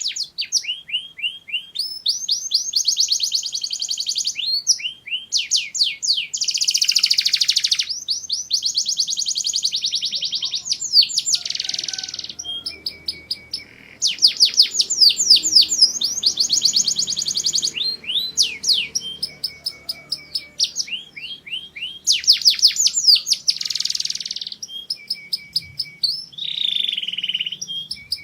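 Domestic canary singing: rapid rolling trills and quick repeated sweeping notes in phrase after phrase, with a short break about halfway through.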